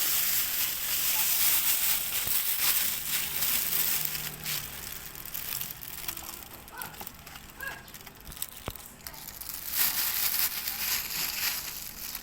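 Garden soil being scooped and poured into an egg tray, giving a rustling, crunching hiss. It comes in two stretches, the first few seconds and again near the end, with faint scattered crackles in between.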